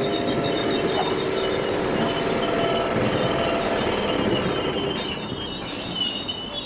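A train running through the station, its wheels squealing in high, steady tones over the rumble of the running gear; the sound dies away over the last second or two.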